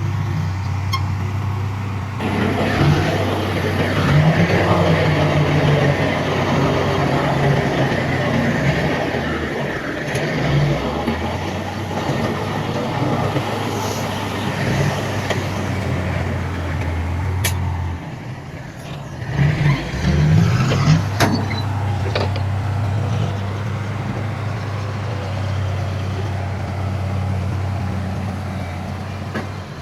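Heavy diesel earthmoving machinery (dump trucks and a bulldozer) running, a steady low engine drone with a rumbling, grinding haze over it. The engine note drops away briefly about eighteen seconds in, amid a few sharp knocks, then settles back to the steady drone.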